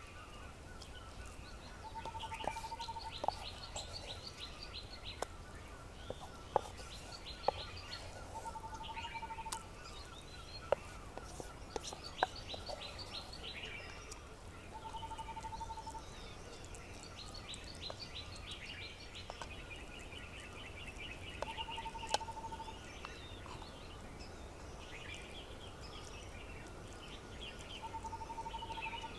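Several birds singing trilled, chirping phrases, while one bird repeats the same short buzzy note about every six seconds. A faint steady high drone runs beneath, and a few sharp clicks sound over the first half and once more a little past the middle.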